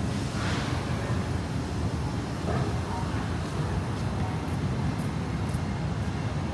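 Busy city street ambience: a steady low rumble of road traffic, with faint indistinct voices.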